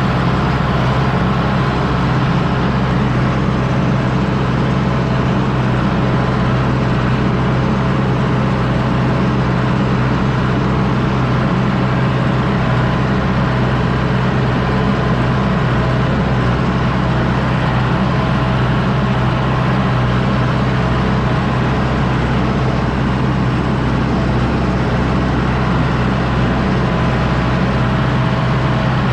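John Deere 6110D tractor's diesel engine running steadily while pulling a disc harrow, a constant low drone with no change in speed.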